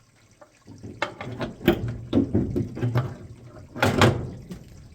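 Knocking and rattling of the old humidifier solenoid valve and its fittings being pulled out and handled: a run of sharp knocks, the loudest about four seconds in.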